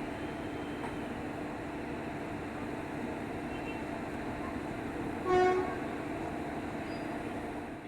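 A train horn gives one short blast about five seconds in, over a steady rail-yard hum during a locomotive change.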